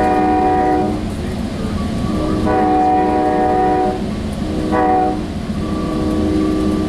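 Sound Transit Sounder commuter train's horn sounding a chord in the long, long, short, long pattern of a grade-crossing signal, over the low rumble of the train running on the rails.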